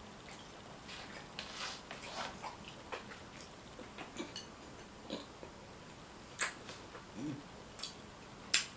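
Close-miked eating of a seafood boil: irregular sharp clicks and cracks of shells being handled and broken, with wet mouth sounds between them.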